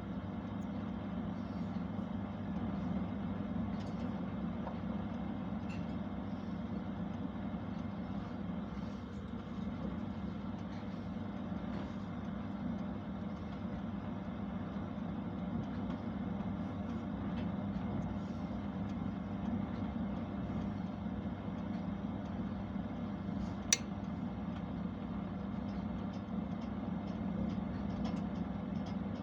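Constructa oven running with a steady, even hum, with one sharp click about three-quarters of the way through.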